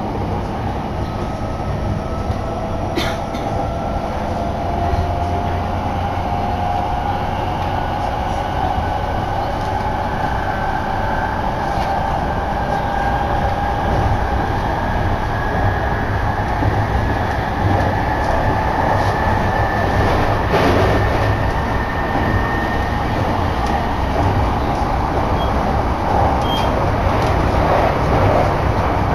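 Electric commuter train running, heard from inside the carriage: a steady rumble of wheels on rails, with a motor whine that climbs in pitch over the first half as the train picks up speed. A couple of sharp clicks come about three seconds in and again about twenty seconds in.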